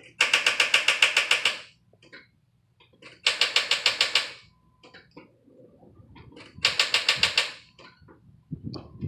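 Jeep Liberty's starter solenoid chattering in rapid clicks, about nine a second, in three bursts of a second or so as the key is turned, with the engine not cranking: a sign that the battery may be dead.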